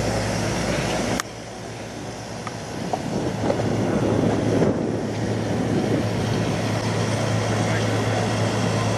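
Road vehicle noise with a steady engine hum. It cuts off abruptly about a second in, then builds again as a vehicle grows louder and holds steady.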